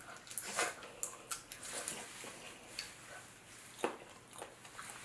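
Close-up eating sounds: wet chewing, mouth smacks and the clicks of crab shell being picked at for meat, with scattered soft clicks and one sharper snap a little under four seconds in.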